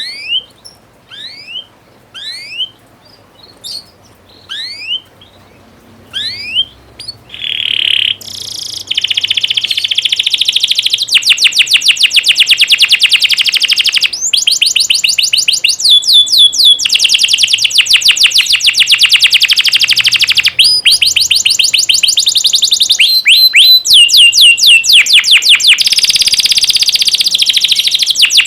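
Canary singing: a string of separate rising chirps, then from about eight seconds in a continuous loud song of fast trills and rolls.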